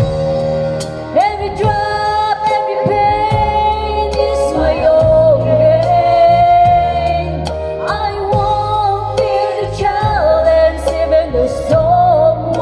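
A woman singing a slow song over an instrumental backing track with a steady bass line, holding long notes.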